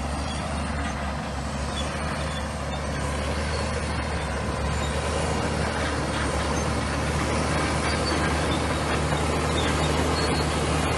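Komatsu bulldozer's diesel engine running steadily with a dense noise of the machine at work over it, slowly growing louder.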